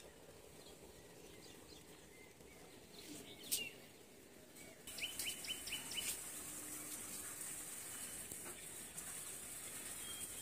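Faint outdoor ambience with small birds chirping: a single chirp about three seconds in, then a quick run of five or six short, high chirps about five seconds in. After that there is only a faint steady hiss.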